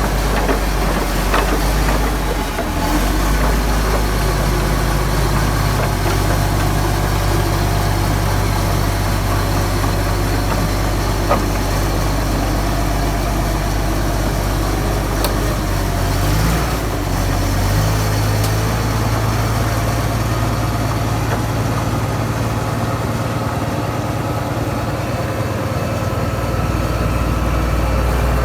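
Heavy diesel machinery engine running steadily at construction-site work, its pitch shifting briefly about sixteen seconds in. A single sharp click comes near the middle.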